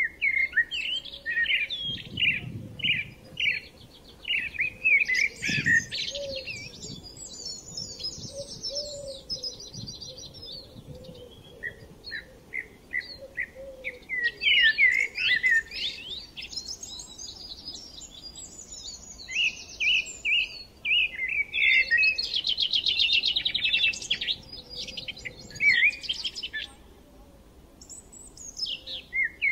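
Small birds chirping and trilling in a busy chorus of quick high calls, with brief lulls.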